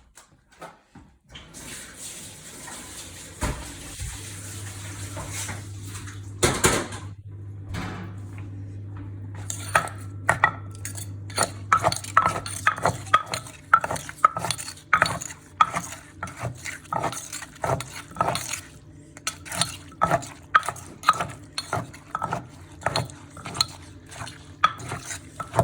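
Pestle knocking in a mortar, pounding and tossing shredded green papaya for som tum. It starts with a rustling, then settles into a steady rhythm of sharp knocks, about two a second, from about ten seconds in.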